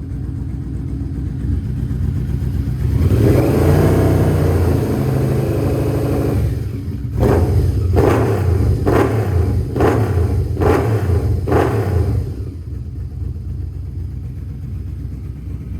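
Yamaha V-Max's V4 engine through an OVER slip-on muffler, idling, then revved once in a longer rise and fall, followed by about six quick throttle blips roughly a second apart before settling back to idle.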